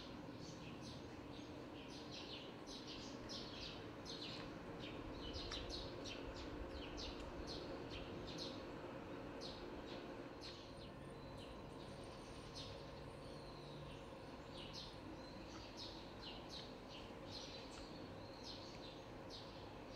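Small birds chirping faintly in short, repeated calls, about one or two a second, over a low steady background hum.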